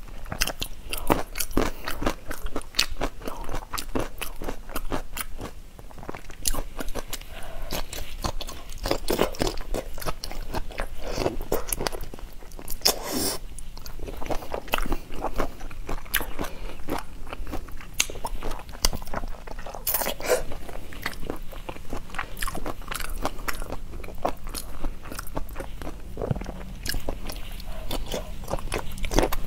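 Close-miked chewing and biting, with many crisp, irregular crunching clicks: a person eating whole shrimp coated in chili sauce.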